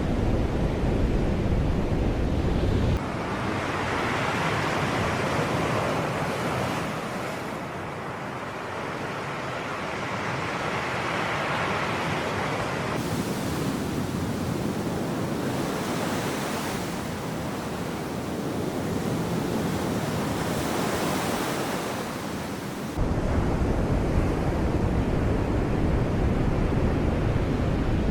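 Sea waves washing in and drawing back, swelling and fading over several seconds at a time. Wind rumbles on the microphone at first, stops about three seconds in, and comes back suddenly near the end.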